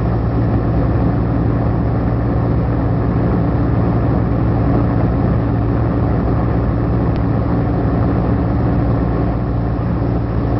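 Tractor-trailer truck engine running steadily at highway cruising speed, an even low drone.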